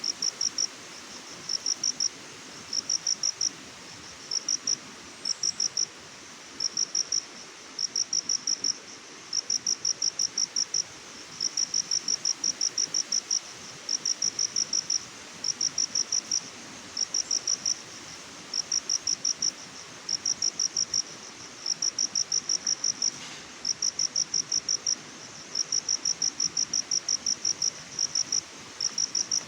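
A cricket chirping: short trains of rapid high pulses, repeating about once a second with brief gaps, over a steady hiss.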